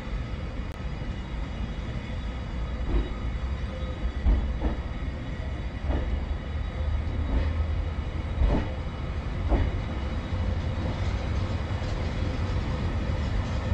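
Unpowered 737-series electric train cars rolling past close by, towed by a locomotive as the train pulls away: a steady low rumble of wheels on rail, with sharp wheel clacks coming every second or so at uneven intervals.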